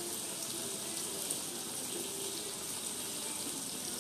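Blended onion, shallot and garlic paste frying in oil in a wide steel wok, giving a steady sizzling hiss.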